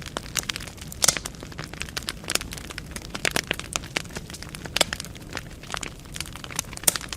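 Wood fire burning in a fireplace, crackling with many irregular sharp pops over a low steady rumble. The loudest pops come about a second in and near the end.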